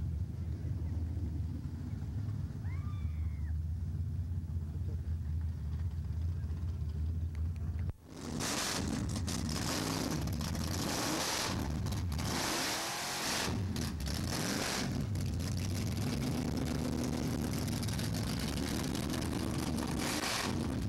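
A steady low engine rumble, then, from about eight seconds in, the loud engine of a 1950s Chevrolet drag car running and revving close by, with its pitch rising and falling.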